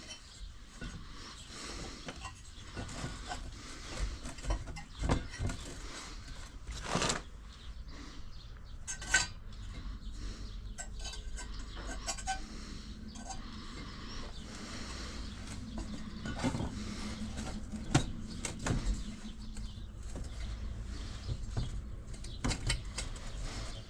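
Scattered metal clinks, knocks and handling noises from work on a Hotsy pressure washer's burner coil housing while new insulation is fitted. The sharpest knocks come about a third of the way in and again about three-quarters through.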